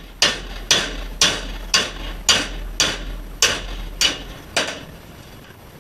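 Hammer striking an old piston wrist pin used as a drift, driving a bearing out of a Yamaha YZ125 crankcase: nine sharp metallic blows at about two a second, each ringing briefly, stopping about four and a half seconds in.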